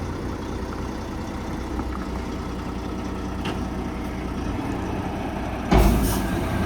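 Kenworth truck's diesel engine running steadily, with a short loud rush of noise near the end.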